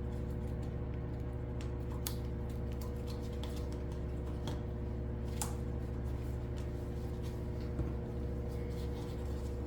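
Steady low electrical or fan hum in the room, with scattered light clicks and taps as small cups and pigment containers are handled while mixing resin colours.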